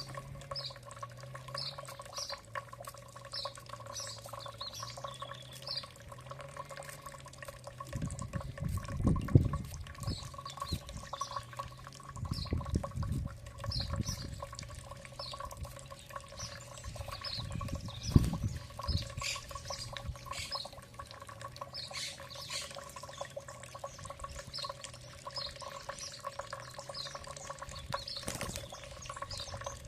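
Small birds chirping, short high calls repeated about twice a second, over a steady low hum, with a few low rumbling bursts partway through.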